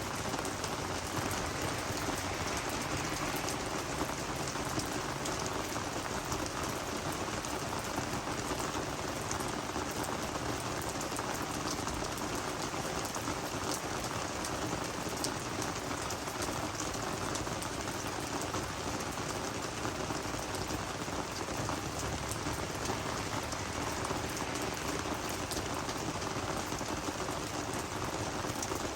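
Steady rain falling on garden plants, a dense even patter of many small drops hitting leaves.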